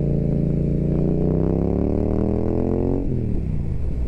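Yamaha MT-07 parallel-twin through an Akrapovič exhaust accelerating hard, its pitch rising steadily for about three seconds, then dropping suddenly.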